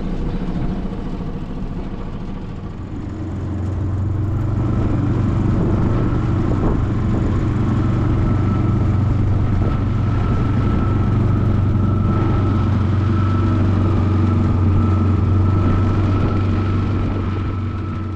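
A small boat's motor running under way, throttled up about three seconds in and then holding a steady drone with a thin whine.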